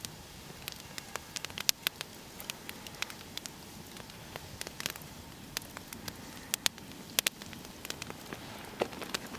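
Wood campfire crackling, with irregular sharp pops over a low steady hiss.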